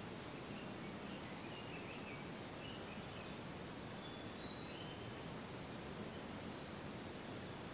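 Wild songbirds calling faintly, short high chirps from more than one bird and a brief trill about five seconds in, over a steady background hiss.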